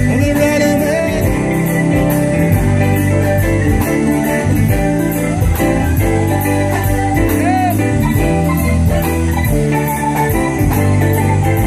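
Instrumental break in a soft-rock song: a full band with drum kit keeping a steady beat under bass and sustained keyboard and guitar notes.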